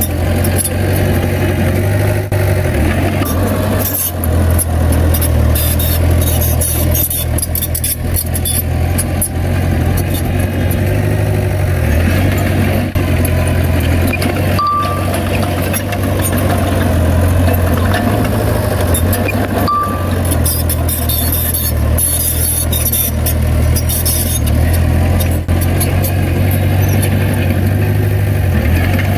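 Heavy diesel earthmoving machine running steadily with a deep engine drone, with frequent metallic clanks and rattles. A short high beep sounds twice, about five seconds apart.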